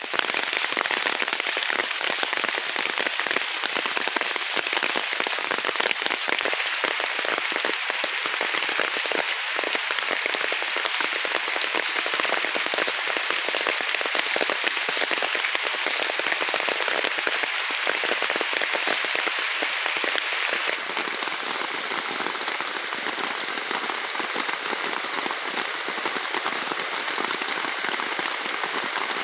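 Heavy rain falling on forest foliage and ground: a dense, steady hiss of many drops, easing slightly about two thirds of the way through.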